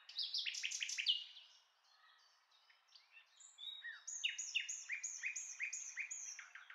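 A songbird singing: quick, clear, down-slurred notes, a fast run in the first second and a half, then after a pause a slower series of about seven falling notes.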